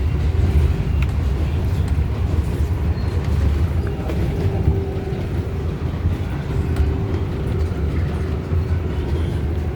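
NYC Subway R188 car running on the 7 line, heard from inside: a steady low rumble of wheels on rails with a faint steady whine.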